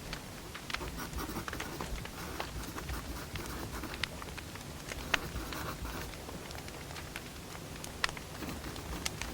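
Firewood burning, crackling with irregular snaps and pops over a low steady rush; two sharper pops about five and eight seconds in.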